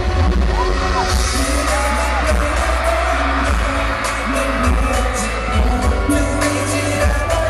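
Live concert sound of a K-pop song with a heavy, steady bass beat and male group singing, played loud over the venue's speakers.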